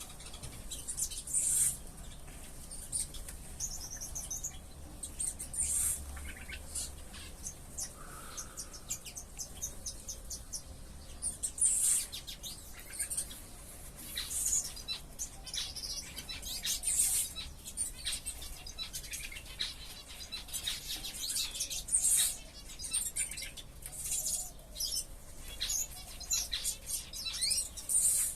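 Many small ornamental aviary birds chirping: short, high, overlapping chirps, with louder calls now and then.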